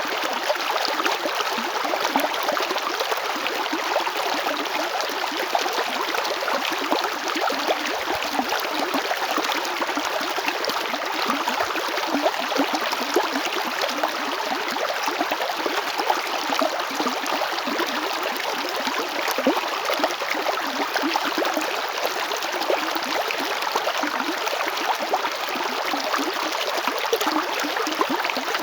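A river flowing over rocks, a steady rushing and splashing of water.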